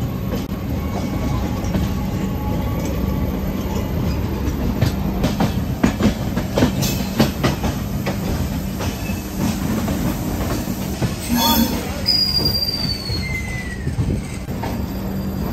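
Duronto Express passenger train rolling slowly into a station over a steady low hum. Its wheels clack over rail joints and points, and a short metal squeal falls in pitch about twelve seconds in.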